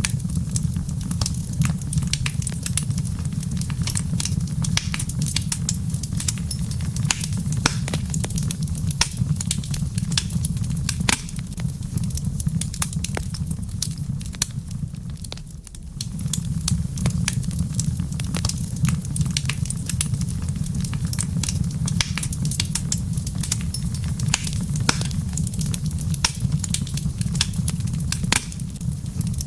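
Wood fire in a fireplace crackling, with many sharp pops over a steady low rumble that dips briefly about halfway through.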